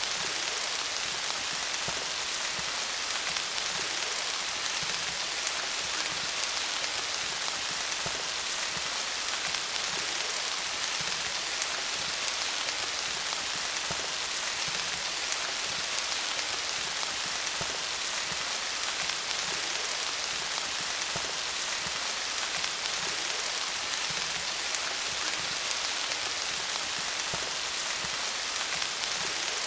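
Steady rain falling on leaves: a constant hiss of many small, closely spaced drop patters, without let-up.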